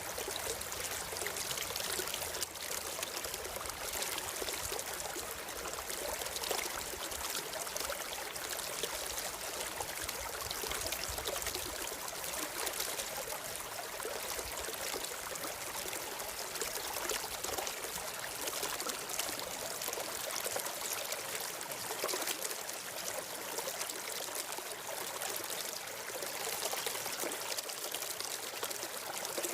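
Running water of a stream flowing steadily.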